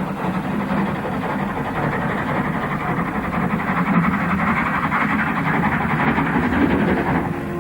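Rebuilt Jubilee three-cylinder 4-6-0 steam locomotive 5736 Phoenix climbing a steep gradient with an express, unassisted, its rapid exhaust beats and the passing train growing louder toward the middle and easing near the end.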